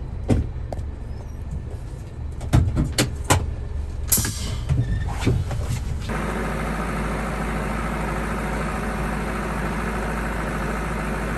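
Truck driving on a rough dirt track: a steady engine and road rumble with several sharp knocks and rattles in the first half, then a steadier, fuller road noise from about six seconds in.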